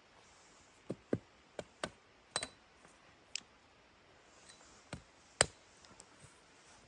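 A scattered series of short, sharp knocks and clicks at irregular intervals over a quiet background, the loudest about five and a half seconds in.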